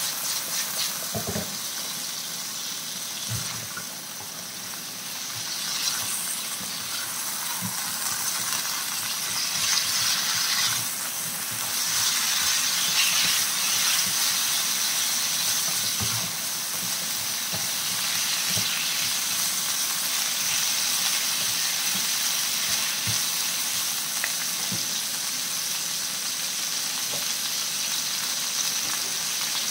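Raw chicken feet sizzling and spitting in hot oil with onion, ginger and garlic in a frying pan, a steady hiss. They are stirred now and then with a spatula, giving a few short knocks against the pan.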